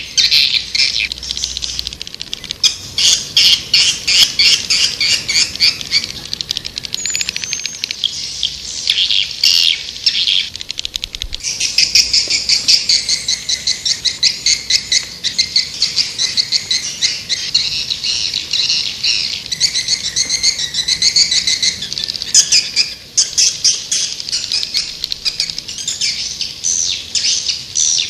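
Swiftlets twittering: a dense, unbroken chatter of rapid high chirps and trills. It is a swiftlet calling (panggil) sound, the kind played to lure swiftlets into a nesting house.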